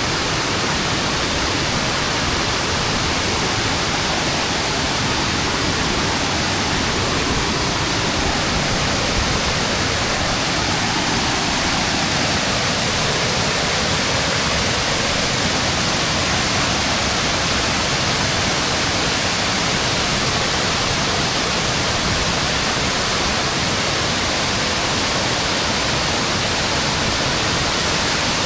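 Waterfall cascading close by: a steady, even rush of falling water.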